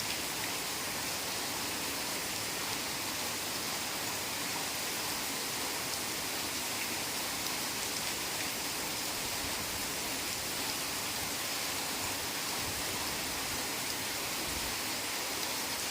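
Heavy rain falling steadily, an even hiss with no single drops, thunder or other events standing out.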